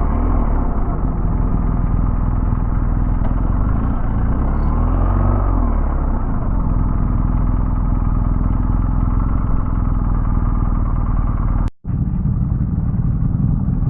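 Motorcycle engine running steadily, with two brief rises and falls in pitch, one near the start and one about five seconds in. The sound drops out for an instant near the end.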